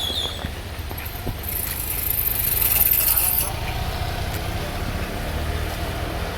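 Heavy rain falling with wind, a steady wash of noise with low rumbling gusts, the hiss swelling louder for a couple of seconds partway through.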